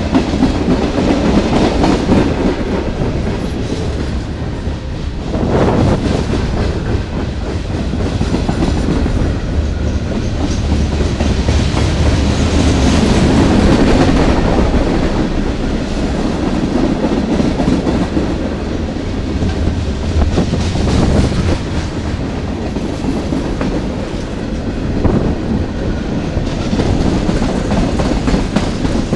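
CSX freight train rolling past: a steady loud rumble with wheel clatter from the passing cars.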